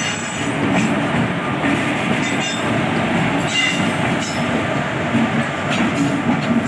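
Express passenger train passing at speed: a steady, loud rush of wheels on the rails with clattering over the joints and a few brief high-pitched wheel squeals.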